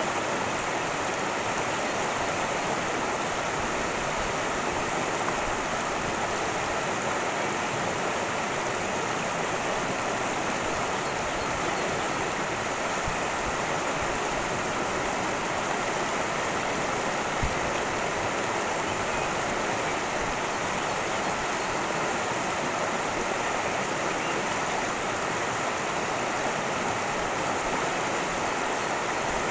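A cascading creek, its water rushing steadily without a break. A single brief low knock comes about 17 seconds in.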